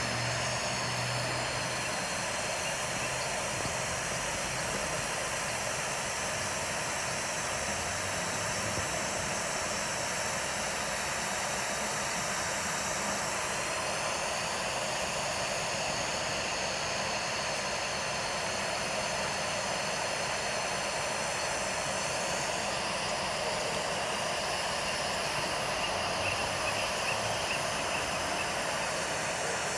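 Steady rushing hiss from the eagle nest camera's outdoor microphone, with no distinct calls or knocks standing out.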